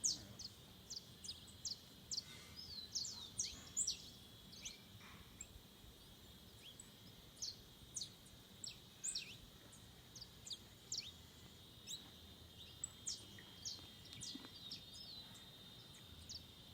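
Forest birds calling with many short, sharp, high-pitched notes that drop quickly in pitch, at irregular intervals, over a steady high insect buzz.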